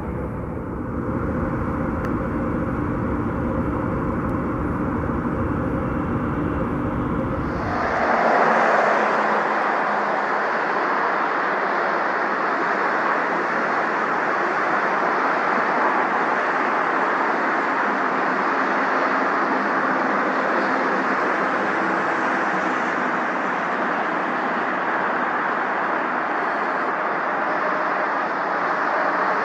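Jet airliner engines running: a steady hum with several held tones over a low rumble. About eight seconds in it switches abruptly to a brighter, even rush without the rumble.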